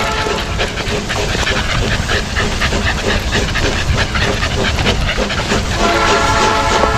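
Two Staffordshire bull terriers breathing hard and loud as they walk, a quick rhythmic run of panting breaths. About six seconds in, a steady sound of several held tones comes in over it.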